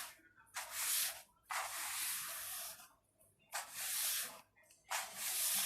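Repeated swishing cleaning strokes against a surface, four in a row, each lasting under a second to about a second, with short quiet pauses between.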